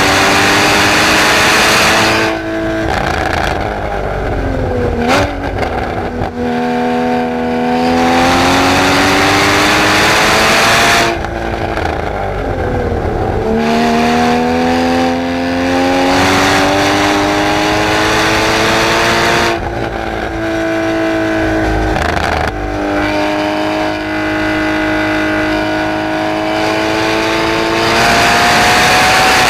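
2016 Porsche Cayman GTS flat-six, heard from inside the cabin on a track lap. The engine note climbs under hard acceleration through the gears, falls away with short rev blips as the car slows for corners a few seconds in and again near the middle, then climbs again toward the end.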